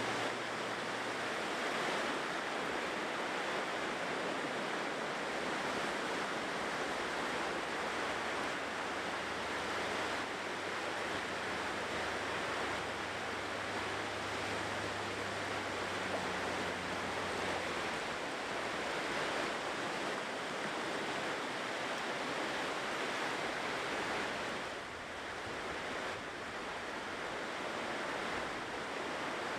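Ocean surf washing steadily onto the shore, easing off briefly near the end before building again.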